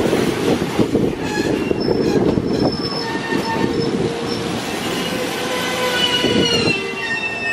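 JR East 205 series 3100 subseries electric train rolling slowly past along the platform as it comes in to stop, with a rumble and wheel clatter under several thin high squealing tones from the brakes and wheels. Near the end the tones rise a little.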